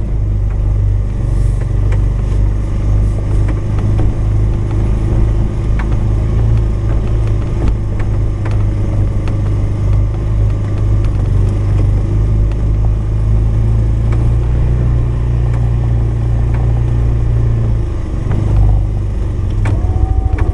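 Polaris 570 utility vehicle's single-cylinder engine running steadily while plowing snow with a front blade, easing off briefly about 18 seconds in.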